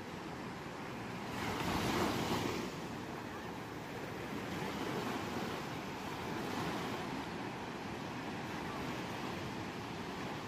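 Ocean waves washing onto a shore, with one louder wave breaking about a second and a half in, then softer swells of surf.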